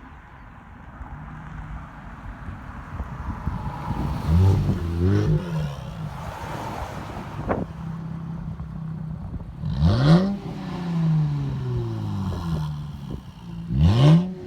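Infiniti Q60 Red Sport 400's 3.0-litre twin-turbo V6 through a sport exhaust with no mufflers, idling and revved: two quick blips about four to five seconds in, then sharper revs about ten and fourteen seconds in, each dropping back slowly to idle.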